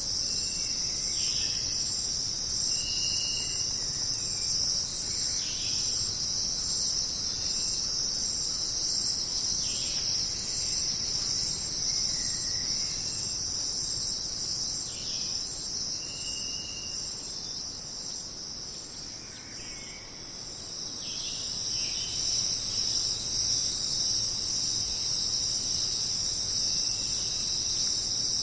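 Dense, steady, high-pitched chorus of jungle insects, with short bird chirps breaking in every few seconds.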